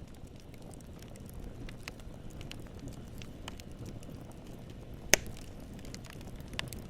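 Wood fire burning: a low steady rumble of flames with scattered crackles and one sharp, loud pop about five seconds in.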